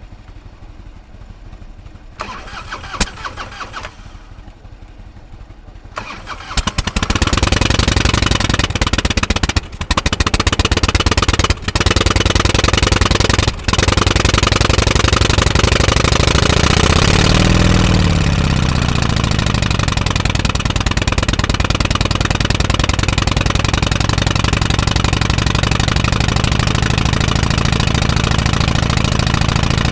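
Harley-Davidson FXSTC Softail Custom's 1340 cc Evolution V-twin being started: it catches about six seconds in and runs loudly. Near the middle it revs up and back down, then settles into a steady idle.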